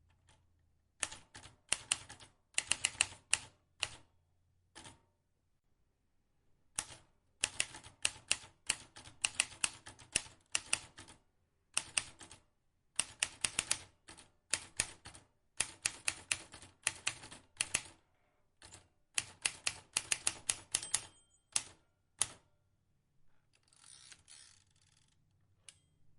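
Vintage manual typewriter being typed on: runs of sharp key strikes in irregular bursts, with a few short pauses between the runs and a softer rustling stretch near the end.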